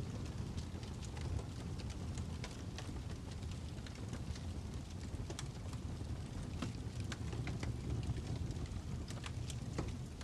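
Fire crackling, with a steady low rumble under irregular sharp pops and snaps, several each second.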